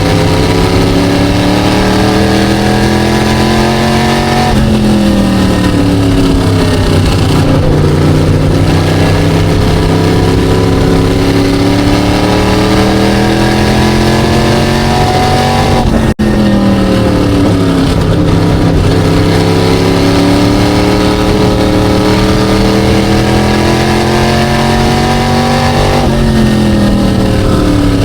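SK Light modified race car's V8 engine at racing speed, heard from inside the car: the engine note climbs steadily in pitch along each straight and falls away twice as the throttle is lifted for the turns. The sound cuts out for an instant about halfway through.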